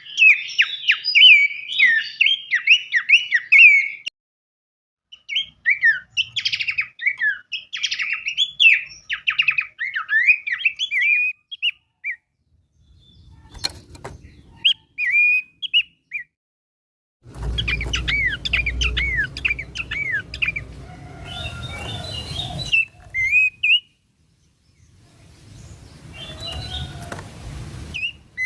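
Songbird song in several separately recorded segments spliced together: rapid, sharp, down-slurred chirps and whistles. The segments start and stop abruptly with short silences between them, and some carry low background noise under the song.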